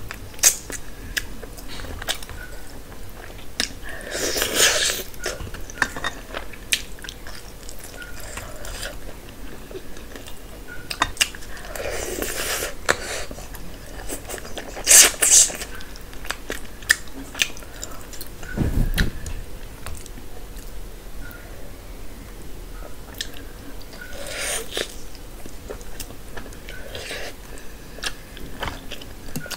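Close-miked chewing and biting into a spiced chicken leg, with many small wet clicks and several louder bites spread through. There is a single dull thump about two-thirds of the way in.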